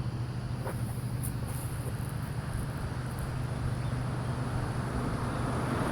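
A steady low engine drone, faint and distant, with insects chirping in the background.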